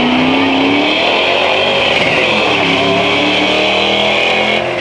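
Drag-racing car accelerating hard down the strip, engine pitch climbing. It drops at a gear change about two seconds in, then rises again.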